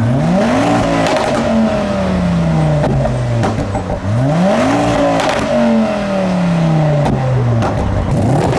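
A modified car's engine revved hard twice, about four seconds apart, each time shooting up in pitch and then slowly falling back, with sharp exhaust pops and bangs over the top.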